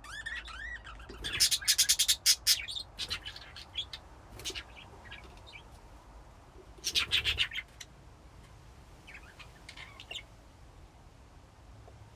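Budgies chirping and warbling in bursts of rapid chirps, one at the start, a loud run of them about one to three seconds in, another about seven seconds in, and fainter calls in between.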